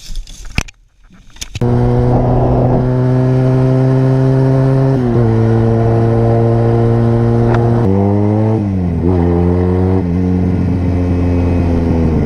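Motorcycle engine running at a steady speed, starting up loud about a second and a half in. Its pitch steps down a little about five seconds in, then dips and rises again around eight to nine seconds in.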